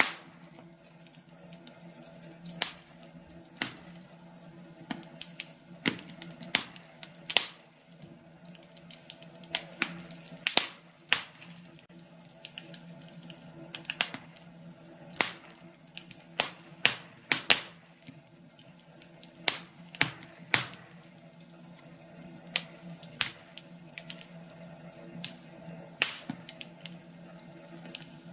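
Wood fire crackling in a fireplace: irregular sharp pops and snaps, some loud and some faint, over a steady low background.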